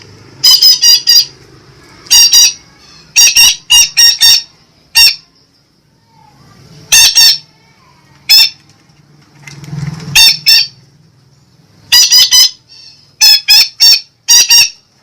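Parakeet (Indonesian betet) giving loud, harsh squawking calls in quick clusters of two to four, repeated every second or two with short pauses between.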